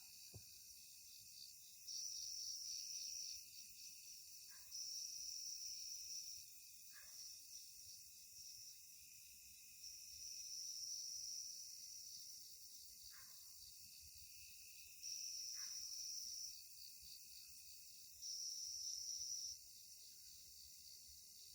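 Night insects calling: a steady high chirring, with a louder pulsing buzz that comes in five times for a second or two each.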